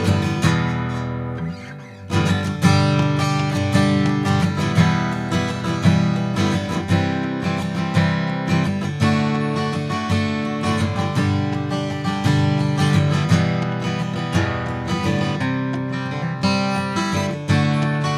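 Martin D-18 acoustic guitar strummed steadily through a G, E minor, C, D chord progression, with a brief break about two seconds in.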